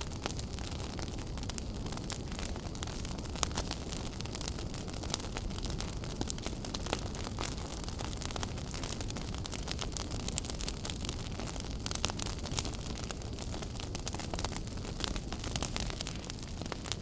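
Wood fire burning in a fireplace: a steady low rumble and hiss with frequent sharp crackles and pops scattered irregularly throughout.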